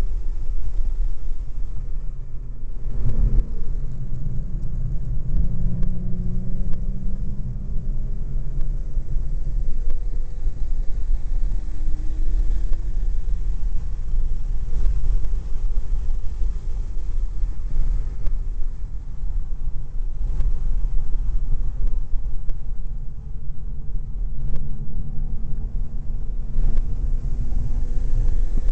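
Supercharged BMW E46 M3's straight-six running on track. Its engine note rises slowly in pitch a few seconds in and again near the end, over a heavy, steady low rumble of wind and road noise.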